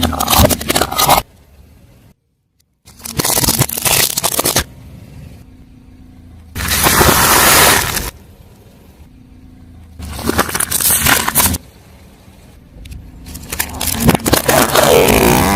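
Car tyre rolling over and crushing objects: about five loud bursts of crunching and crackling, each lasting one to two seconds and a few seconds apart, with a quieter steady low hum between them.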